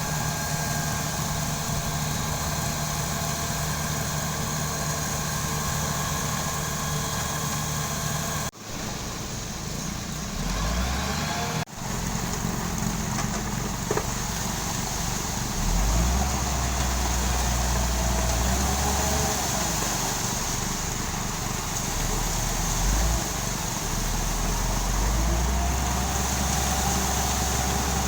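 Engine of road-construction machinery running steadily, with a deep low rumble that swells and fades several times in the second half. The sound cuts out briefly twice, about 8 and 12 seconds in.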